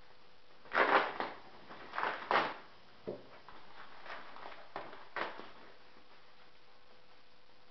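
A series of short knocking and rustling handling noises as model jet parts are lifted out of their packing. They are loudest around the first and second seconds, fainter ones follow, and they stop a little past halfway.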